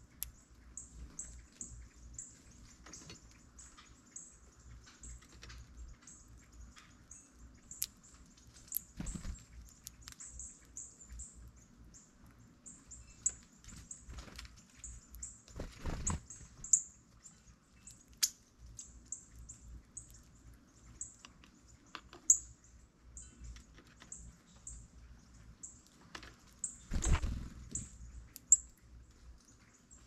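Birds giving short, high chip notes, a few a second, with three brief louder rustling sounds.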